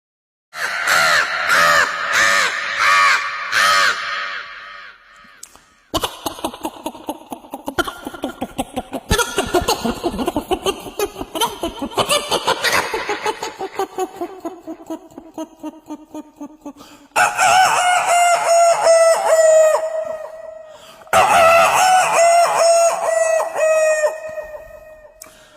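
A series of loud, wavering, rooster-like calls in several separate bits that start abruptly: warbling repeated calls at first, then a long stretch of rapid pulsing with a slowly falling pitch, then two long wavering calls near the end.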